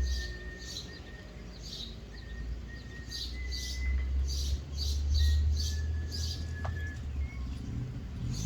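Small birds chirping repeatedly in short, high calls that come faster in the middle, over a steady low rumble.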